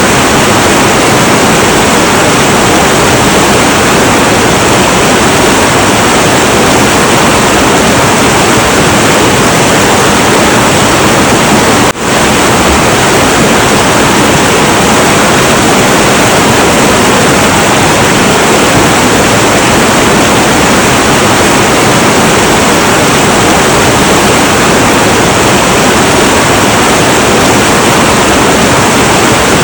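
Heavy, turbulent river water rushing in a steady, dense roar, with a momentary dip in level about twelve seconds in.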